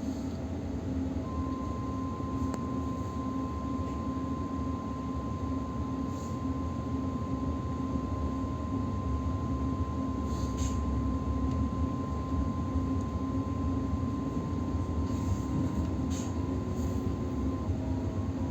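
Electric suburban train running along the line, heard from inside the carriage: a steady rumble of wheels on rails. A steady high whine is held for most of the stretch, and a few faint clicks come through.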